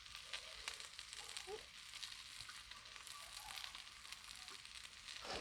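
Faint sizzling with fine crackling ticks from the entrevero de pinhão cooking over the fire.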